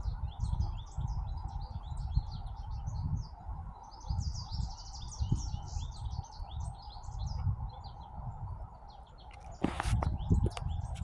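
Many small birds chirping, a busy run of short high chirps that is densest about four to six seconds in, over a gusty low rumble of wind on the microphone and a steady background hiss. A single knock comes near the end.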